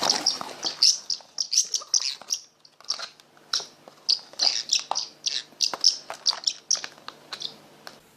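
A bird chirping over and over, a quick irregular string of short, high, sharp chirps that thins out near the end.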